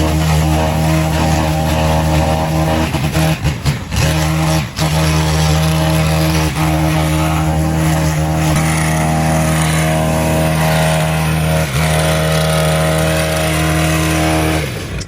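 Petrol engine running steadily at constant speed, then shutting off near the end, its pitch sliding down as it winds down.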